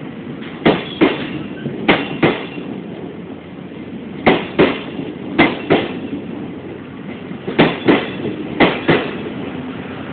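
Passenger coach wheels clicking over rail joints as a departing train rolls slowly past: about six double clicks, one for each bogie's two axles, over a low rolling rumble.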